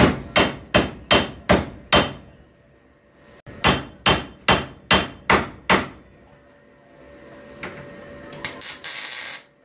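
Hammer blows striking repeatedly at about two and a half a second, in two runs of six separated by a short pause. A few lighter knocks and a brief hiss follow near the end.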